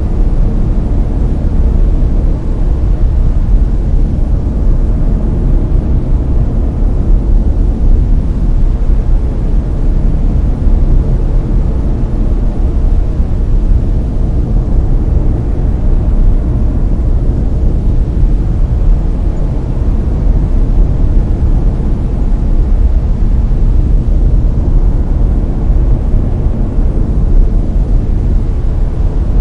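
Layered brown noise: a loud, steady, deep rumbling hiss with most of its weight in the bass, unchanging throughout.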